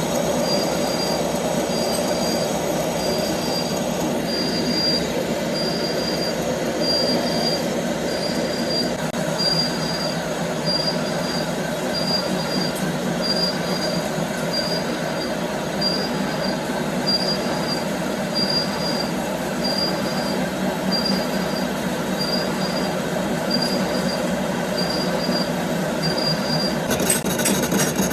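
Steady running noise from gear-factory machinery, with a faint high beep repeating a little faster than once a second; the sound shifts near the end.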